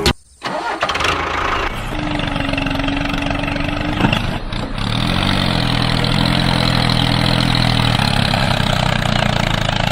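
A motor starts up and runs steadily. From about five seconds in it settles into an even, engine-like hum with a hiss over it.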